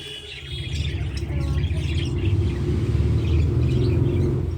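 Baby birds chirping, with high cheeps clustered in the first second, over a loud low rumble that builds up and dominates the rest.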